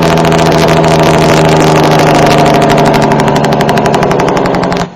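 Dump truck's diesel engine running loud and steady with a fast, even pulse, its beat slowing slightly over the last second or so before it cuts off abruptly.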